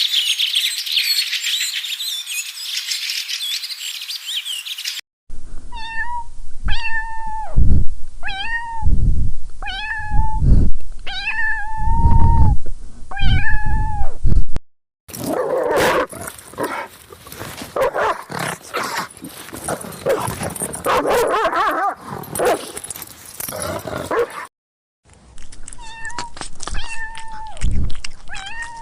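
A cat meowing over and over, a string of separate drawn-out meows. Before the meows there is a few seconds of high bird chirping, and partway through there is a stretch of denser, noisier sound. The meows return near the end.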